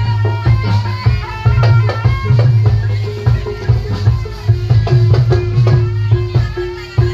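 Live Barongan accompaniment: a Javanese gamelan-style folk ensemble playing, with rapid, heavy drum strokes over busy ringing pitched percussion.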